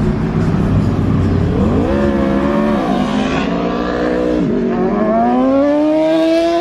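A vehicle engine revving hard: a short rise in pitch about two seconds in that falls back, then a long steady climb in revs through the second half.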